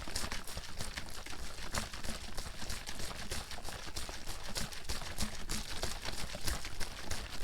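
Water bottle being shaken hard and continuously, the water sloshing and splashing inside in quick, irregular strokes.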